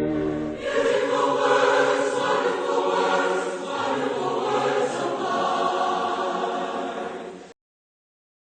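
A choir singing, following the end of an organ passage about half a second in; the audio cuts off suddenly to silence about a second before the end.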